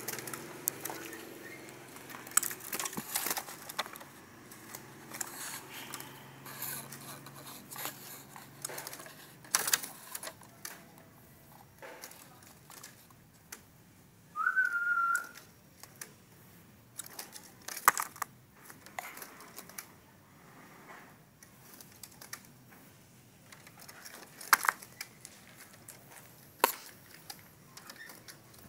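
Scattered clicks and scratches, and about halfway through one short whistled note from an oriental magpie-robin, rising and then held.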